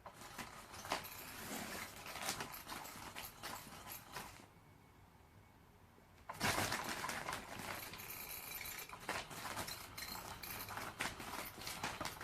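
Electric cat toy running, its motor-driven feather whirring and rustling with many sharp clicks. It stops for about two seconds around the middle, then starts again suddenly and louder.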